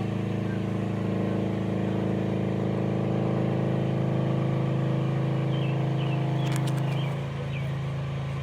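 A motor engine running steadily, with a droning hum that drops a little about seven seconds in, and a few short high chirps over it.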